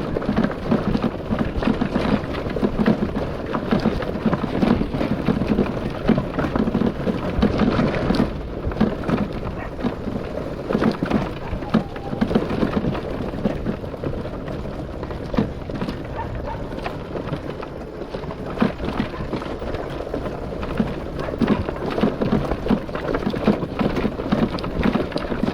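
Motorcycle riding over a rough dirt track: a steady rumble of wind on the microphone and engine, shot through with constant jolts and rattles from the bumps.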